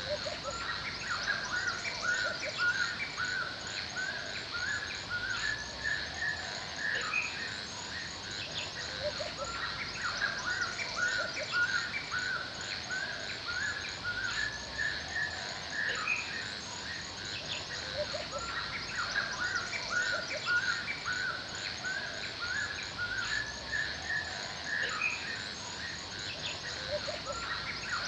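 Forest ambience: several birds chirping and calling in many short, repeated notes over a continuous high-pitched insect trill.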